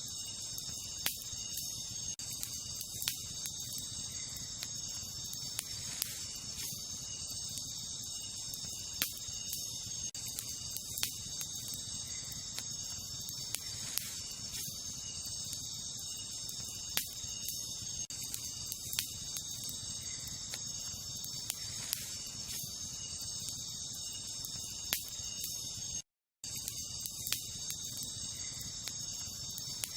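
Wood campfire crackling, with sharp irregular pops every second or so, over a steady high chirping chorus of night insects such as crickets. The sound cuts out completely for a split second near the end.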